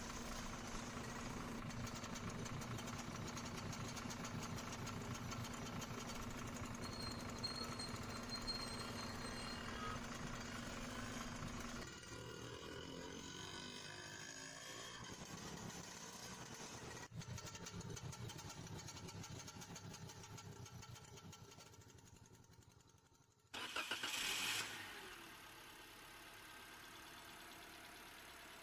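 Engine sound of remote-control model trucks running, changing abruptly about twelve seconds in. A brief loud burst comes near the end.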